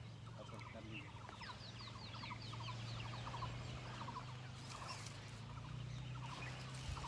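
Birds calling faintly: long runs of short, quickly repeated falling notes, over a steady low hum.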